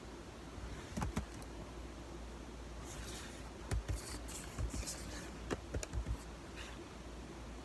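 A mouthful of cornstarch being chewed with the mouth closed: crisp crunching clicks and crackles, a couple about a second in and a busier cluster through the middle.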